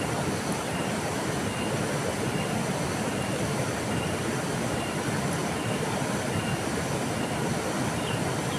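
River water flowing steadily, an even rushing noise. A faint high peep repeats at a regular pace beneath it.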